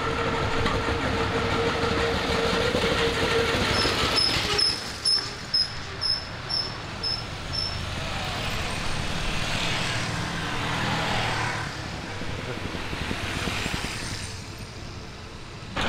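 A veteran car's engine passing close by, beating slowly and evenly at about two to three beats a second, followed by a few motorcycles riding past one after another.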